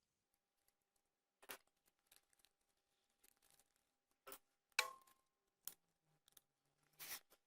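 Scissors snipping paper card, with a few short separate snips and clicks. The loudest comes about five seconds in and trails a brief ring.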